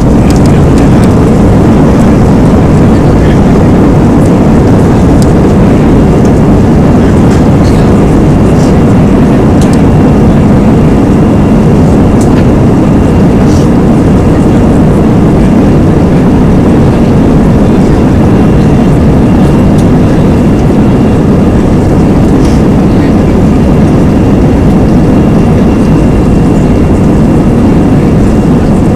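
Airbus A320's jet engines at high thrust during takeoff, heard from inside the cabin as a loud, steady rumble with a faint, steady high whine.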